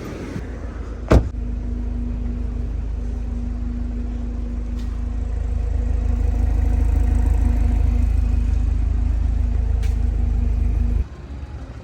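2021 BMW 330i's 2.0-litre turbocharged four-cylinder idling after a cold start: a steady low rumble that comes in right after a sharp click about a second in and stops abruptly near the end.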